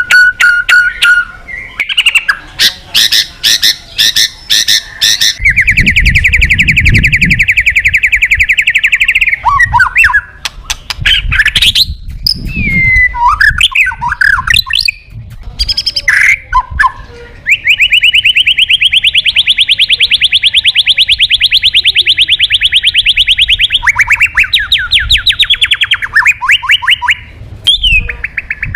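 White-rumped shama singing loudly: fast rattling trills, two of them held for several seconds, mixed with short whistled notes that slide up and down. This is the bird's full challenge song, used as a lure to call out rival birds.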